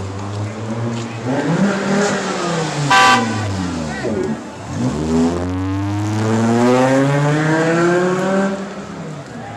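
A car engine revving: its pitch falls, then climbs again and holds high before easing off near the end. A short horn toot sounds about three seconds in.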